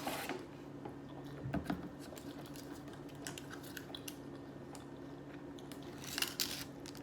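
Someone chewing chicken McNuggets close to the microphone: faint, scattered wet mouth clicks, with a short cluster of louder clicks about six seconds in, over a low steady hum.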